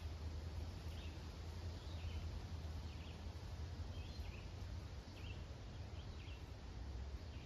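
Woodland ambience: a small bird chirping faintly, short calls repeated every second or so, over a steady low rumble.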